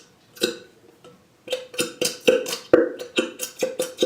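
Nearly empty squeeze bottle of glue being squeezed again and again, sputtering and burping out air and the last of the glue in short bursts of about two or three a second, with a pause about a second in.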